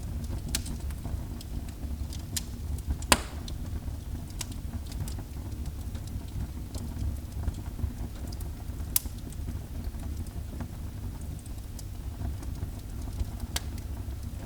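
Wood fire burning in a fireplace: a steady low rumble with scattered sharp crackles and pops, the loudest about three seconds in.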